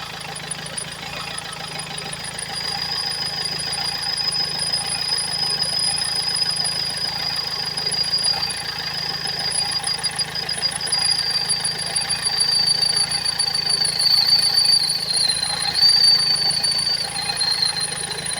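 Engine idling with a steady high-pitched whistle from the engine. The whistle drops slightly in pitch in the last few seconds.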